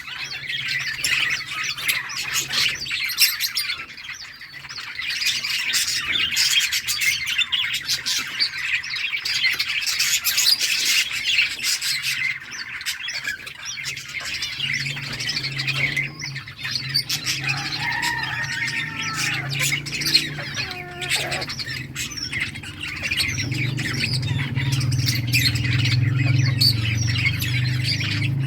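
A colony of budgerigars chattering and chirping continuously in a dense high twitter. A low steady hum comes in about halfway through and grows louder near the end.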